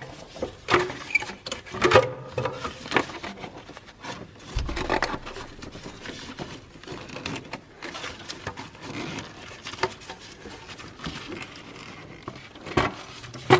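Irregular clicks, knocks and scraping of hand tools and metal parts being handled in a car engine bay during disassembly, with one dull low thump about four and a half seconds in.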